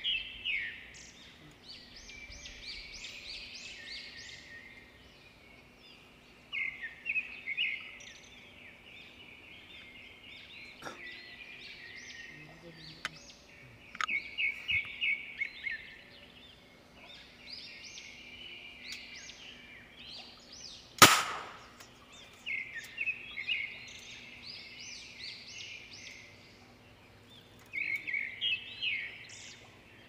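Small birds singing in repeated short bouts of rapid high chirps, with one sharp crack about two-thirds of the way through, a shot from a homemade PVC pipe gun.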